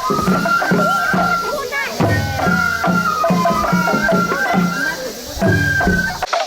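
Japanese festival hayashi music for a lion dance: a high, held melody moving between a few notes over a steady beat of drums, with the low beat dropping out suddenly near the end.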